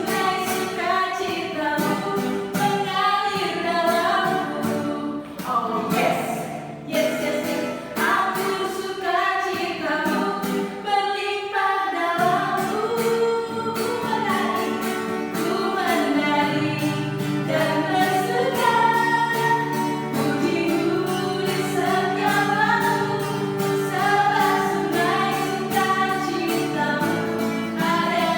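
A worship song: several voices singing together over instrumental accompaniment with a steady beat.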